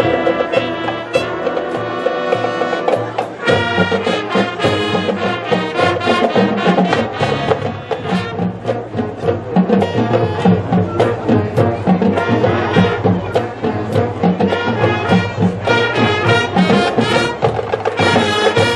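Brass and drum music, with horns holding pitched notes over steady drum beats; it cuts off abruptly at the end.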